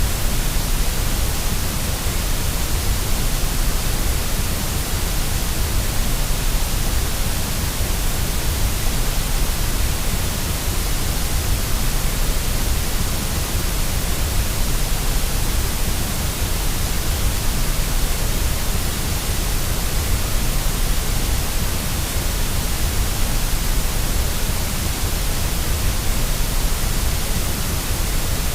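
Steady white noise for soothing a baby to sleep: an even, unchanging hiss with a deep low rumble underneath.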